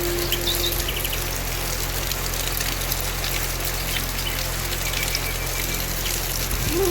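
Steady rain falling, an even hiss of drops. A held music note fades out about a second in, and a wavering flute-like melody comes in near the end.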